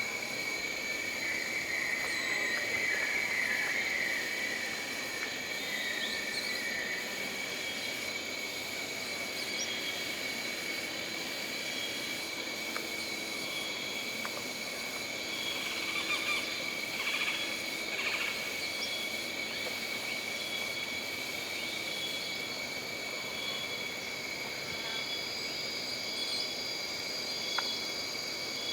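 Jungle ambience: a steady chorus of insects holding several constant high pitches, with one insect call pulsing about once a second. Other animal calls come in briefly near the start and again midway.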